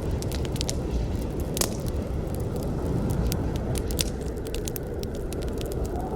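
Campfire burning: a steady low rumble of flames with irregular sharp crackles and pops of burning wood, a few louder pops among them.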